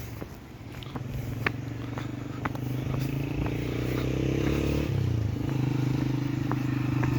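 A vehicle engine running steadily, growing louder over the first few seconds, with a brief change in its note about five seconds in. A few faint clicks sound over it.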